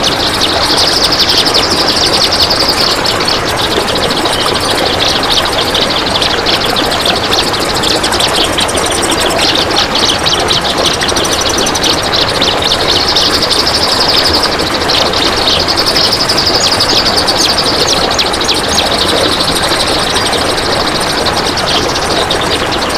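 A kapas tembak bird (a bulbul) giving a long, unbroken run of very fast rattling chatter, the dense 'besetan' of the title, over a steady hiss.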